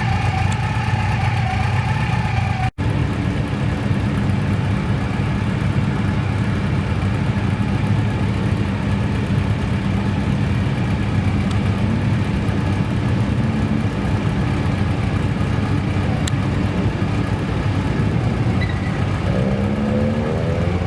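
Modified car engines running at idle, a steady low hum with a brief dropout about three seconds in. Near the end an engine's pitch rises as it revs.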